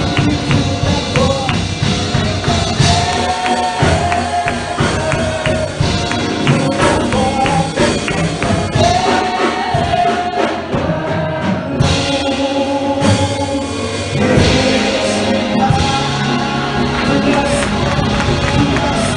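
Gospel choir and congregation singing with a live band, tambourine and drums keeping a steady beat.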